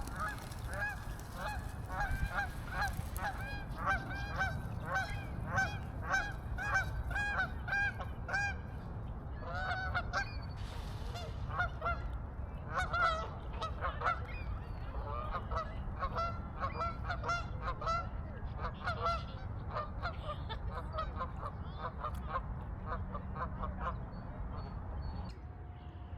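Geese honking: a steady run of calls, about two a second, for the first nine seconds, then more scattered honks that thin out near the end.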